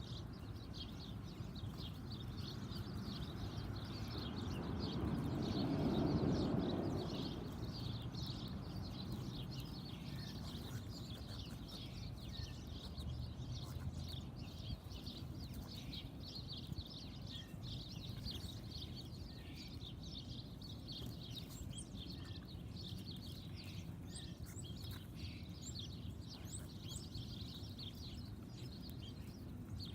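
Backyard birds chirping continuously in a busy, overlapping chatter. A low rumble swells and fades away about six seconds in.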